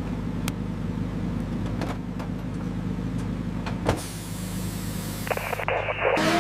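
A car engine drones steadily at an even pitch, with a few sharp clicks over it. The sound changes abruptly about four seconds in and again a little over a second later.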